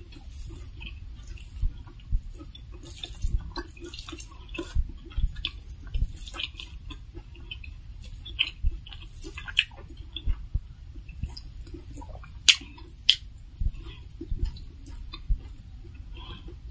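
Close-miked chewing and wet mouth smacking while eating rice and fried pork belly by hand, with irregular sharp wet clicks and soft taps as fingers mix rice on the metal plate; the sharpest click comes a little past halfway.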